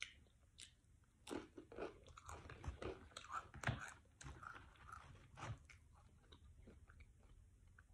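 Close-up crunching and chewing of nacho cheese Doritos tortilla chips. The first bite gives a few sharp crunches, then comes a dense run of irregular crunches that thins out over the last couple of seconds.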